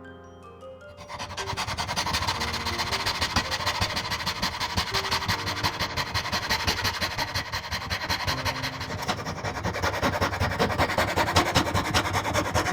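Rapid, continuous rasping strokes on wood, starting about a second in, with soft mallet-toned background music underneath.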